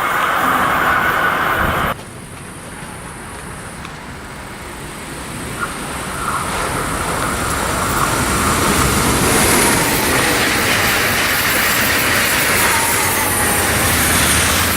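Train noise on an electrified main line. One train's noise cuts off abruptly about two seconds in. Then another train approaches, growing louder over several seconds, and runs past steadily, its wheels sounding on the rails.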